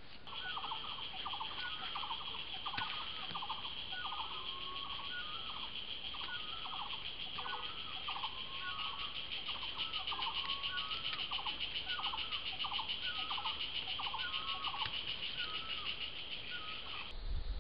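A bird calling over and over, about once a second, each call a quick cluster of rising notes, over a steady high insect buzz; both stop abruptly near the end.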